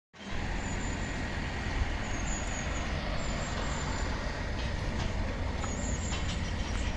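Isuzu 4HK1-TC four-cylinder turbo diesel engine of a 4×4 water truck running steadily with a low rumble. A few short, faint high chirps sound over it now and then.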